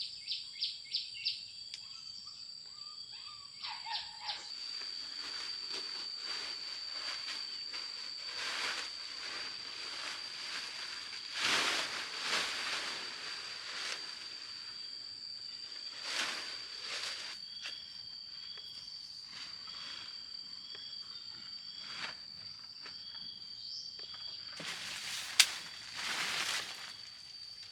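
An insect trilling on one steady high note throughout, with a quick run of bird chirps at the start. Irregular rustling and scraping noises come and go, with one sharp click about 25 seconds in.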